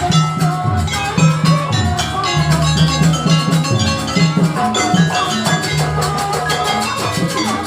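Jaranan gamelan accompaniment: drums and metal gong-chimes playing a dense, driving rhythm over sustained pitched tones.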